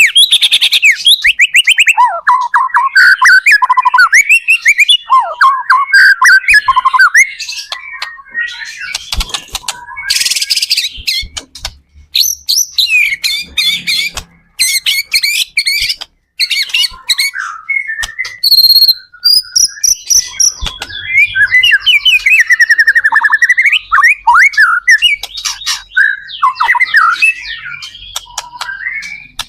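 White-rumped shama (murai batu) singing a fast, varied song of clear whistles, rapid trills and chattering phrases, broken by a few short pauses. It is the loud, non-stop 'gacor' song of a bird in full voice.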